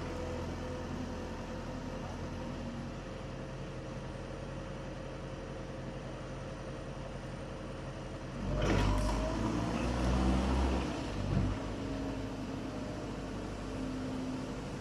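A heavy machine's engine runs steadily while digging in. About eight and a half seconds in there is a sharp crack, followed by a louder crunching rumble for about three seconds, then the engine settles back to a steady run.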